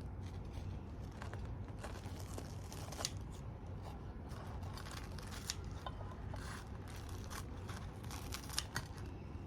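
Short crackly cutting and tearing sounds of a blade slicing open crisp, puffed fried bread balls to make pockets, a few separate cuts, over a steady low hum.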